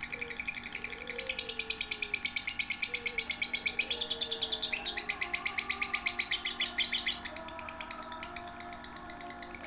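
Young lovebird chattering: a fast, continuous run of high chirps, loudest from about a second in until about seven seconds, then dropping back, with lower gliding notes underneath.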